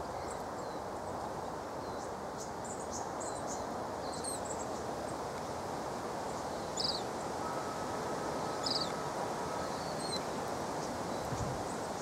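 Silvereye giving short, high chirps every second or two over a steady outdoor hiss.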